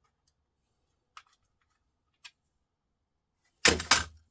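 Screwdriver bits and their case being handled: two light clicks, then a loud double clatter of hard objects near the end.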